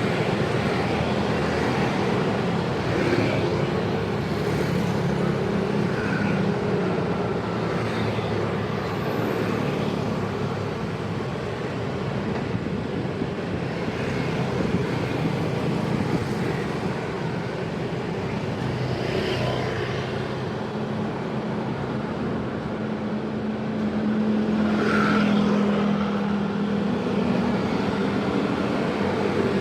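Busy road traffic: a steady mix of vehicle engines and exhausts running, with one engine hum growing louder for a few seconds near the end as a vehicle passes close.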